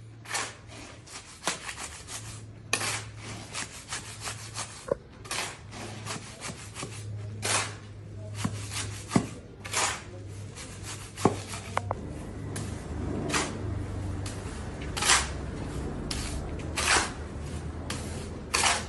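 Repeated scraping strokes of a hand tool rubbing on a rough surface during construction work, coming irregularly about once every second or two, over a faint low steady hum.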